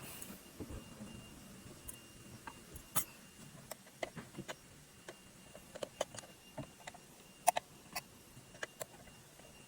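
Irregular light clicks and taps of small parts being handled, several a second at times, the loudest about seven and a half seconds in.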